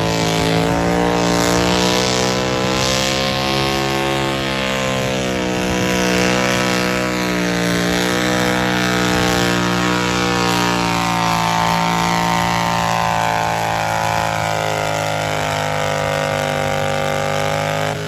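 Garden pulling tractor's engine running hard at steady high revs, its pitch wavering slightly as it labours under load.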